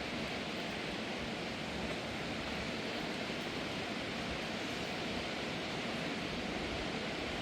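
Steady, even noise of a rainstorm, with no breaks or distinct events.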